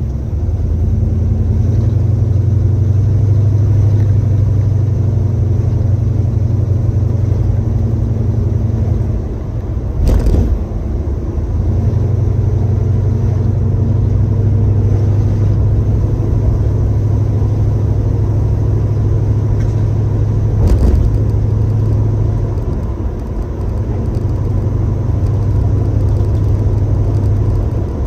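1966 Chevrolet Chevelle's engine running with a steady low drone while driving, heard from inside the car. The drone falls away briefly twice, and there are two short thumps, about ten seconds in and about twenty-one seconds in.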